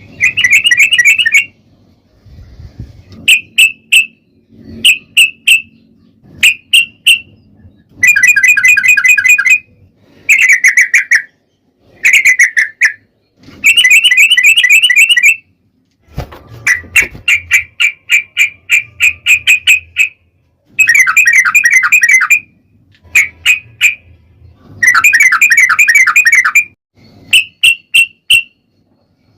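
Yellow-vented bulbul (trucukan) song played loud as a lure: fast, bubbly chattering phrases a second or two long, alternating with short single and paired chirps, repeated over and over with brief gaps.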